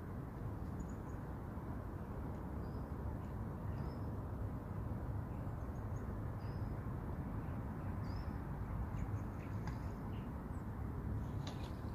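Small birds calling with short, high chirps every second or so over a steady low outdoor rumble.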